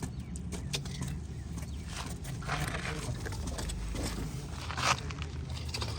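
Scattered clicks and knocks of pipe and tools being handled during PPR pipe fitting work, over a steady low hum.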